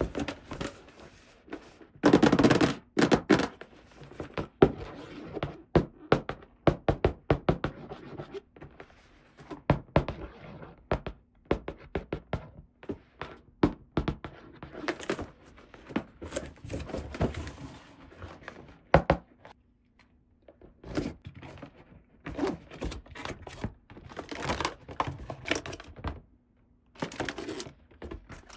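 Small plastic toy pieces handled and set down: a long, irregular run of sharp clicks and knocks, with short pauses about twenty seconds in and again near the end.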